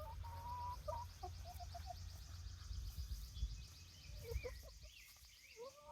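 Hens making soft, faint calls: a drawn-out note and a few short clucks near the start, and a few more soft calls near the end.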